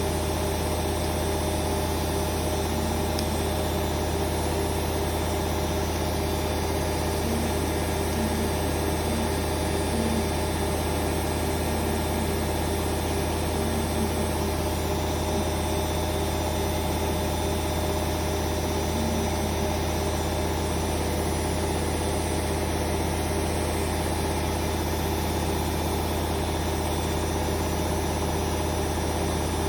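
Hoover Vision Dynamic washing machine on a spin-only cycle, its drum spinning at a steady speed with a constant motor hum and whine.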